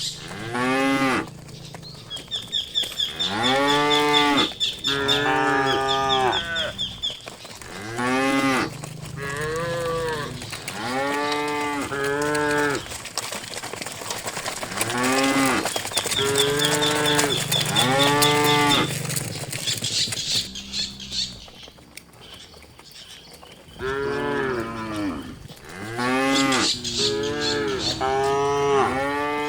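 Several cattle mooing again and again in long drawn-out calls, some overlapping one another, with a lull of a few seconds past the middle.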